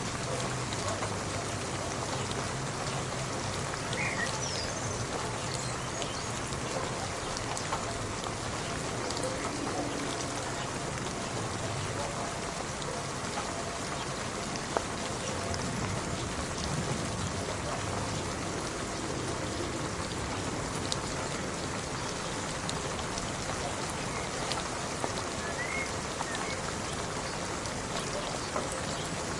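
Steady rain falling: an even hiss with scattered sharper drop ticks, one louder tick about halfway through.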